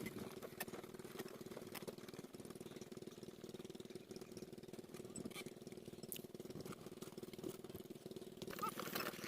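Diesel engine water pumpset running steadily with a rapid, even chugging.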